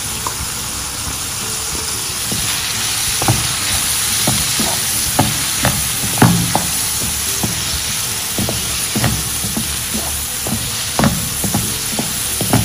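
Snake gourd pieces and urad dal sizzling in hot coconut oil in a nonstick frying pan while the dal roasts, with a wooden spatula scraping and tapping the pan in irregular strokes as it stirs, starting a few seconds in.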